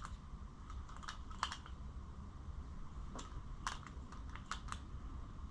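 Light, sharp clicks and taps of small metal carburetor parts and a screwdriver being handled during disassembly, a few scattered clicks with the loudest about a second and a half in.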